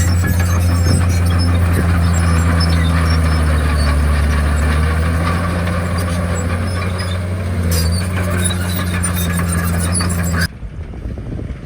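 Komatsu D51PX crawler bulldozer's diesel engine running steadily under load, with squeal from the tracks. About ten and a half seconds in the engine sound cuts off abruptly, leaving a quieter rumble.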